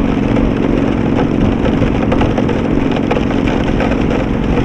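Victory Vegas Jackpot's V-twin engine running steadily at cruising speed, under a rush of wind and rain on the camera microphone.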